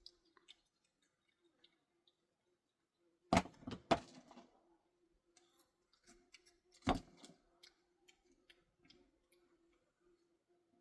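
Three sharp knocks of hard objects striking, two close together a few seconds in and one more near the middle, with light clicking and clattering between them.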